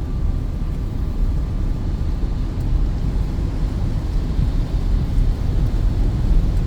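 Steady low rumble inside a Peugeot 2008's cabin while driving uphill on a wet highway: engine, tyres and road noise.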